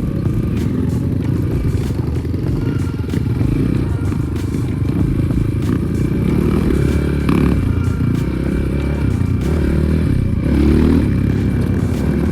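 Air-cooled 300 cc enduro motorcycle engine running under way, revving up and down, with rising surges about seven and ten seconds in.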